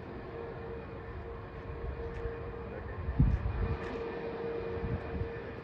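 Jet airliner engines running with a steady hum and a held whine, heard at a distance. Low thumps of wind on the microphone come a little after three seconds in.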